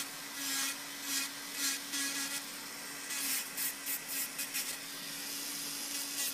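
Electric nail drill running with a steady hum, its bit grinding gel off a fingernail in short, irregular scratchy strokes, several a second. The drill's built-in dust extraction is switched off.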